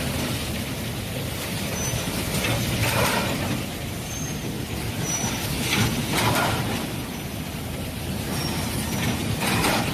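Factory machinery running steadily, with a louder swell about every three seconds and a few short high squeaks.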